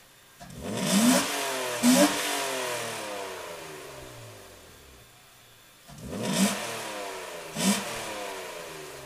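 1996 BMW 328i's 2.8-litre straight-six, fitted with an aftermarket intake, revved twice from idle, each time with two quick stabs of throttle before the revs fall slowly back to idle. No whine can be heard now that the power steering pump and belt tensioners have been replaced.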